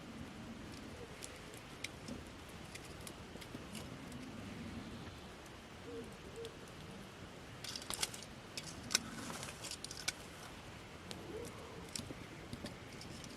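Wood campfire crackling, with scattered sharp pops over a faint steady hiss and a quick cluster of louder snaps about eight seconds in.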